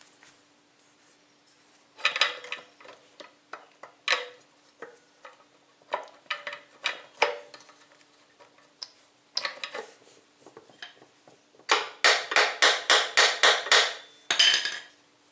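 Metal parts and tools clinking and knocking against a lawn tractor's split transaxle case as a shaft and its parts are worked in, ending in a quick run of sharp metal taps, about five a second. A faint steady hum runs underneath.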